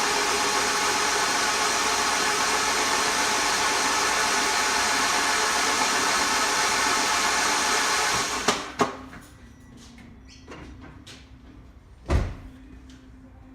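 Starter motor cranking the Alfa Romeo 2.0 Twin Spark engine with its spark plugs out and earthed, spinning it over steadily without firing, to check each plug for a spark. The cranking stops about eight seconds in, followed by a couple of clicks and a thump.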